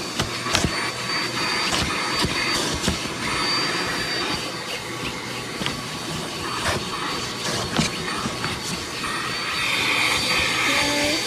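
Bissell CleanView Compact upright vacuum running steadily with a thin high whine. Frequent short clicks and ticks can be heard over the motor.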